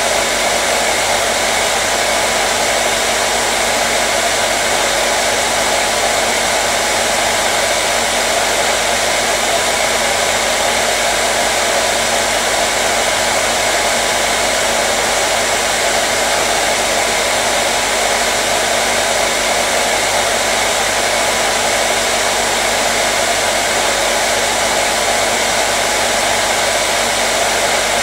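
Hair dryer running steadily: an even, unbroken whoosh of blown air over a faint motor hum, played as white noise to soothe a colicky baby.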